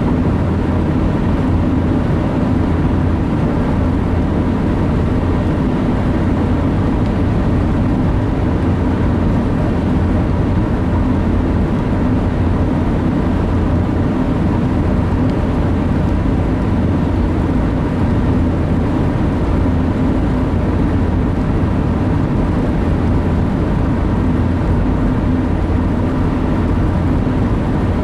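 Steady road and engine noise from inside a moving car's cabin, a constant low drone that neither rises nor falls.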